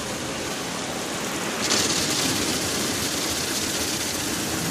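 Automatic car wash water jets spraying onto the car's body and windows, heard from inside the cabin as a steady rain-like hiss that gets louder and sharper about a second and a half in.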